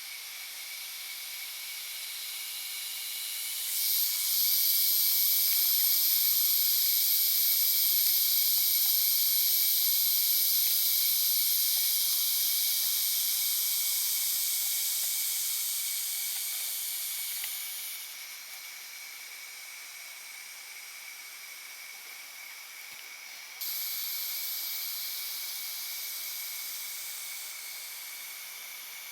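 High-pitched insect chorus droning in the forest. It comes in abruptly about four seconds in, fades away around eighteen seconds, and starts again suddenly a few seconds later, over a constant thin high tone.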